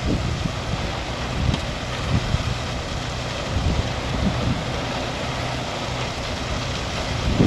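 Dump truck engine running steadily, with wind buffeting the microphone in uneven gusts.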